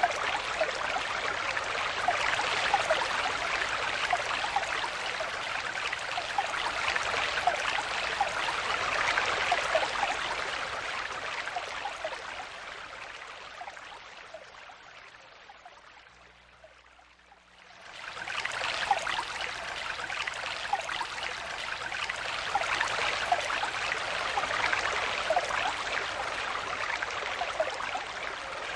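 Stream water flowing and babbling steadily over stones. About halfway through it fades away almost to silence, then comes back up within a second or two.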